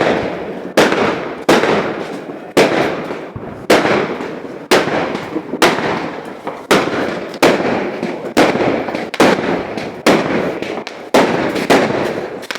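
Fireworks going off in a steady string of loud bangs, roughly one every three-quarters of a second, each followed by a crackling, echoing tail.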